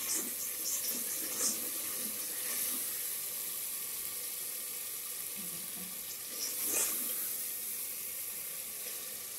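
Onions and chicken sizzling steadily in hot oil in a metal handi, stirred with a steel ladle that scrapes the pot a few times in the first second and a half and once more about seven seconds in.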